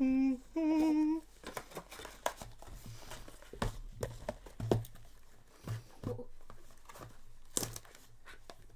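Packaging crinkling and rustling as cardboard booster boxes are handled and slid open, with many small scattered clicks and taps.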